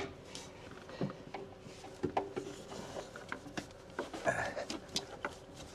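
Pliers working a hose in a car's engine bay, twisting it to free it: scattered light clicks and taps of metal, with a short scrape about four seconds in.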